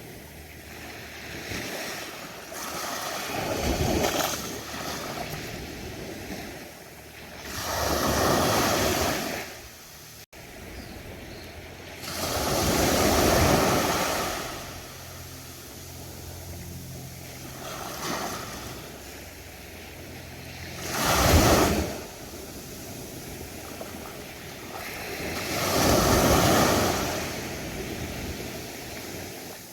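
Ocean waves breaking on a beach: the surf rises and falls in surges every few seconds, about five in all, the one about two-thirds of the way through the loudest and sharpest.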